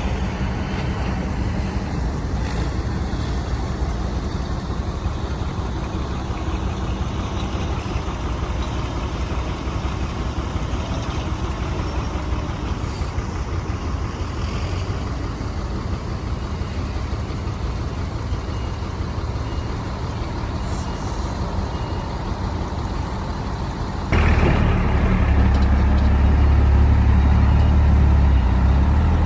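Heavy diesel engines of earthmoving machinery, an excavator and dump trucks, running steadily. About 24 s in the sound jumps suddenly louder, with a deeper rumble.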